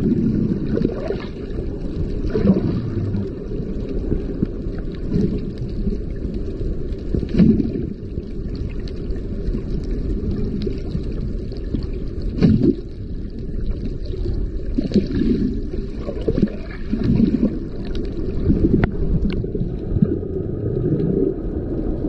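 Sea water sloshing and splashing, with a steady low rumble underneath and irregular surges, a few sharp splashes standing out.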